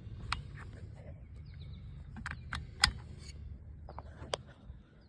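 Sharp clicks and knocks from handling and adjusting an old Husqvarna 272XP chainsaw, the loudest about three seconds in, over a low rumble that stops near the end. Birds chirp faintly.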